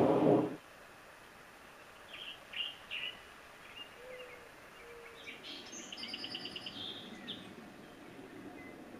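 Wild birds calling in woodland: a few short high chirps about two to three seconds in, then a fast high trill lasting about two seconds, with two soft low whistled notes in between. A loud low rumble cuts off about half a second in.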